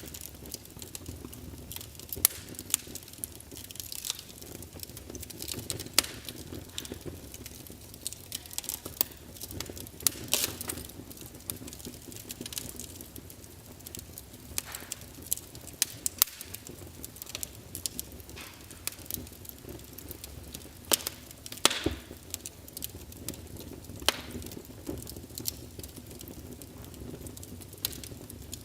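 Wood fire crackling, with irregular sharp pops and snaps every second or so over a steady low rumble.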